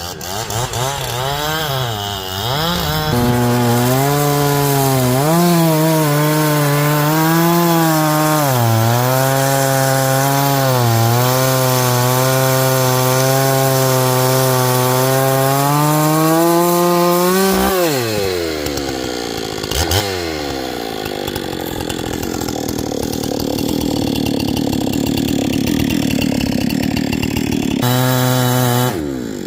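Chainsaw cutting into a ponderosa pine, its engine pitch wavering up and down under load. About seventeen seconds in the saw drops away, followed by a stretch of rougher noise with one sharp crack, and it runs again just before the end.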